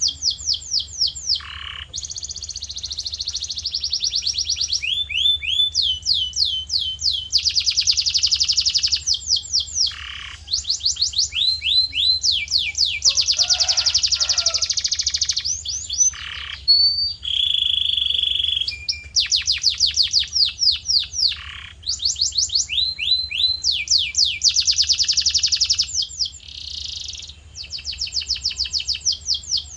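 Male canary in full song: long runs of fast repeated notes, trills and rolls changing every second or two, with a steady low hum underneath.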